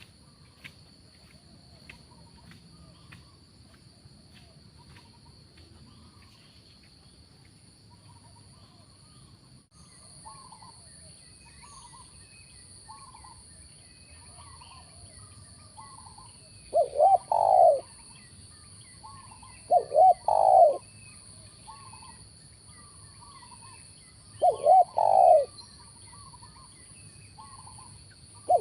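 Spotted dove cooing: four loud phrases of two or three notes, each about a second long, coming every three to four seconds from about halfway in, with faint chirping from other birds behind them.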